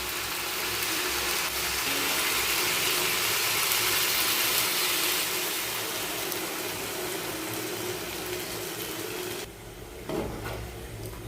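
Water being poured into a pan of hot chicken gravy, a steady pouring and hissing wash that stops abruptly about nine and a half seconds in. A brief knock follows shortly after.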